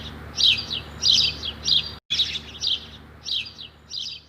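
A bird chirping: repeated bursts of quick high chirps, each falling in pitch, about two a second, with a brief break about two seconds in.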